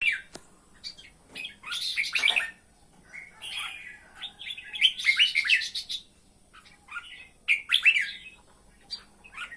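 A bird chirping in quick clusters of short, high calls, a new cluster every second or two with quiet gaps between.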